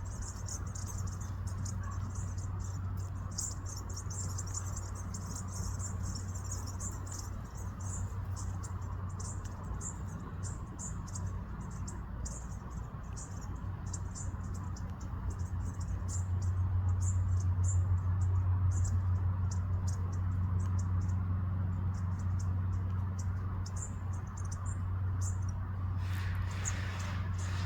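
A flock of bushtits giving rapid, very high, thin contact calls, thickest in the first few seconds, over a steady low hum. A brief burst of noise near the end.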